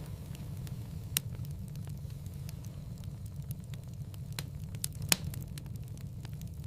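Wood fire burning in a fireplace: a steady low rumble with many small scattered crackles, and two louder pops, about a second in and about five seconds in.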